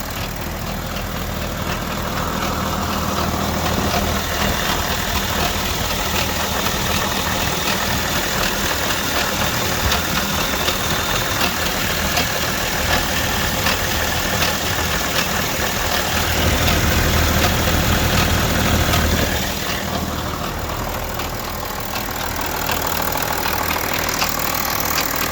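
BMW 730d's M57N2 straight-six diesel running with a steady mechanical clatter, a noise suspected to come from the timing chain. It gets louder about sixteen seconds in, then drops back a few seconds later.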